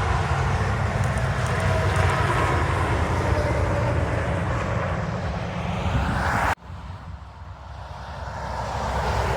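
Semi trucks passing on an interstate highway: a loud, steady rumble of diesel engine and tyre noise that cuts off suddenly about six and a half seconds in, then traffic noise building again near the end.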